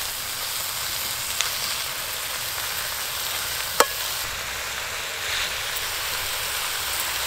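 Fresh spinach leaves sizzling in hot oil in a metal kadai as they are turned over with a flat metal spatula. One sharp clink of the spatula against the pan comes a little before halfway.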